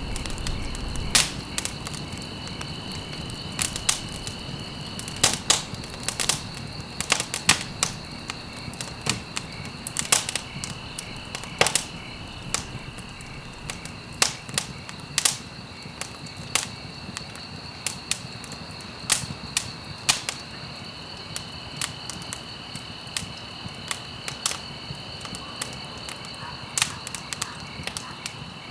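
Wood fire burning in a fireplace, crackling with irregular sharp pops and snaps over a steady hiss.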